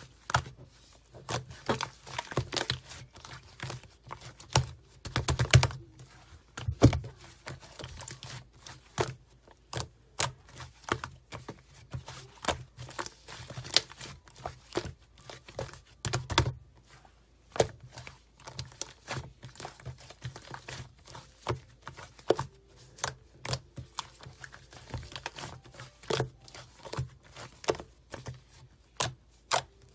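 Toy slime being squeezed and stretched by hand, giving a dense, irregular run of sharp clicks and pops.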